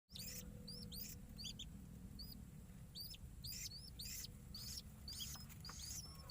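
Newly hatched whistling-duck ducklings peeping: faint, high, repeated peeps, about two or three a second, over a low steady hum.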